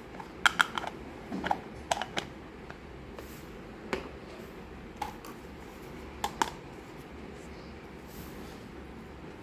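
Light clicks and taps of small plastic miniature toy pieces being handled, a quick cluster in the first couple of seconds and then single clicks every second or so.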